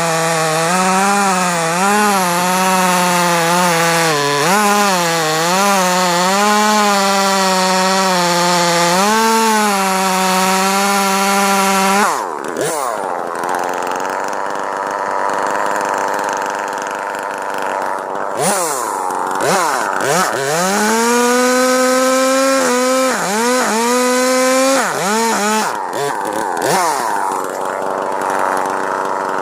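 A gasoline-powered saw engine running under load while cutting wood, its pitch wavering. About twelve seconds in it drops off, then revs up and back down several times.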